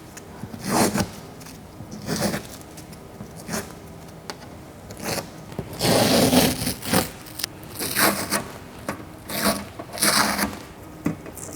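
Masking tape being pulled off the roll and torn in a series of short, irregular rips, the longest about six seconds in.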